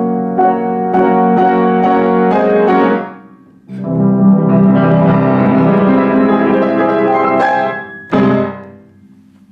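Solo piano playing the closing bars of a piece: repeated chords about twice a second, a brief break, a full sustained passage, then one final chord struck near the end that rings and fades away.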